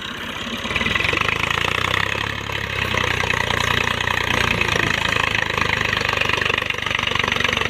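Diesel tractor engine working hard under heavy load, straining to pull a stuck trolley loaded with wood out of deep sand. It gets louder about a second in and then holds a steady, hard-working run.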